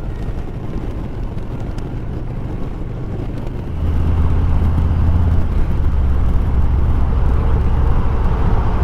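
Harley-Davidson Milwaukee-Eight 114 V-twin, still on its stock cam, running steadily under way with a low rumble. The engine gets clearly louder about four seconds in and stays up.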